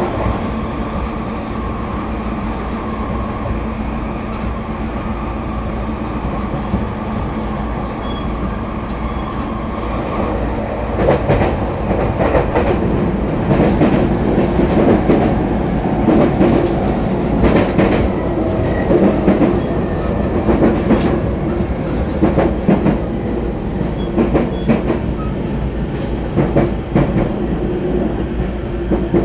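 E231-series electric commuter train running, heard from inside the car by the door. A steady rumble carries a thin steady hum for roughly the first ten seconds; after that it grows louder, with the wheels clacking over rail joints again and again.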